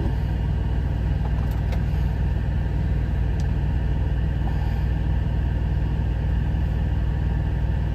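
Truck's engine idling, a steady low hum heard from inside the cab, with a few faint clicks.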